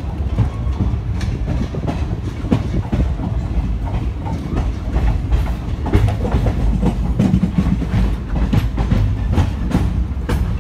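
Indian express passenger train running at speed, heard from aboard a coach: a steady low rumble of the wheels on the rails, broken by many irregular clicks and clacks of the wheels over rail joints.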